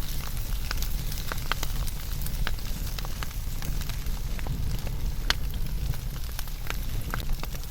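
Wood fire burning: a low steady rumble of the flames with irregular sharp crackles and pops of the burning wood, several a second, one louder pop about five seconds in.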